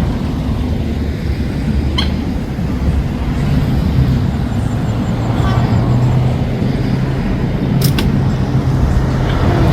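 Motor vehicle engine running steadily with road noise, with a sharp click about two seconds in and another near the end.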